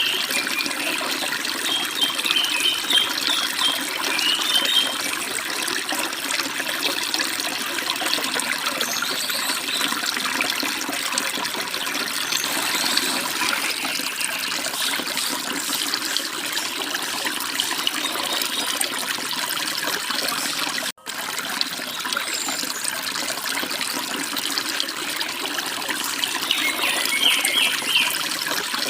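Forest stream running and splashing steadily, with a few short spells of birds chirping over it: near the start, around the middle and near the end. The sound cuts out for a split second about two-thirds of the way through.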